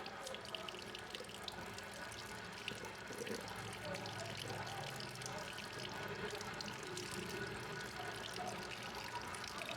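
Water running steadily into a hair-wash basin, with small splashes and clicks.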